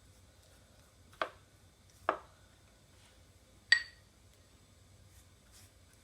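Three short knocks of kitchenware, the last a ringing clink like glass or china, while egg wash is brushed onto dinner rolls.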